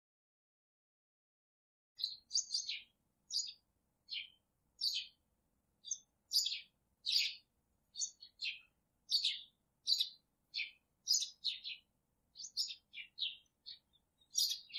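Bird chirping: a quick series of short, high calls, about two a second, starting about two seconds in.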